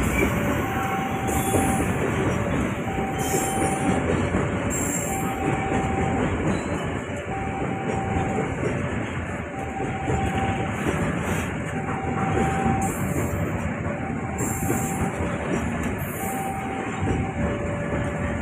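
A train running past, a steady rumble of wheels on rail with some high squeal, while a two-tone warning signal, a higher tone then a lower one, repeats about every two seconds.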